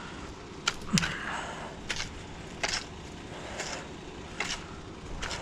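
Two sharp knocks about a second in, the second a heavier clunk, then footsteps at a walking pace, a little under one step a second.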